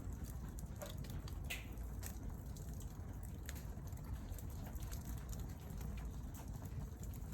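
Wood fire burning, with scattered irregular pops and crackles over a steady low rumble.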